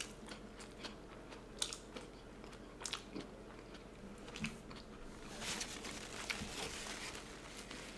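Close-miked biting and chewing of food, with scattered sharp mouth clicks and a stretch of denser noisy chewing a little past the middle.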